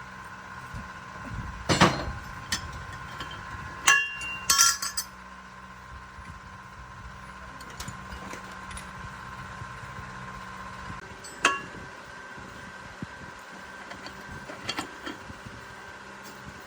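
Metal tools and steel parts clinking and knocking: a few sharp, ringing strikes, the loudest about 2 s and 4 to 5 s in and another about 11 s in, over a steady low hum.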